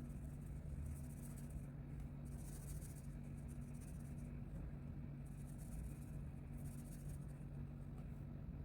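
Colouring strokes on paper: a series of scratchy back-and-forth strokes, each under a second long, with short pauses between them. A steady low hum runs underneath.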